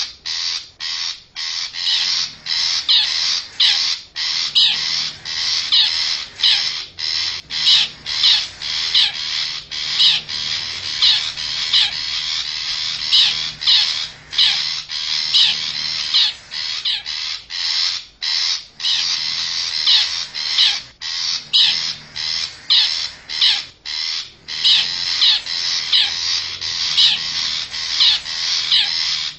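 Long-tailed shrike (cendet) lure-call recording: a fast, unbroken run of high, scratchy call notes, several a second, of the kind used to draw wild shrikes in.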